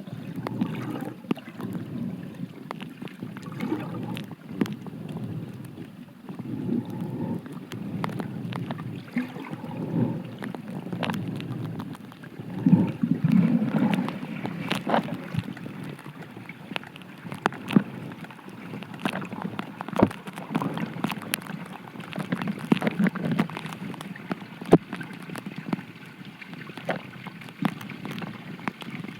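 Mountain stream water recorded from under the surface: a muffled, uneven low rushing that swells and fades, scattered with many sharp little clicks.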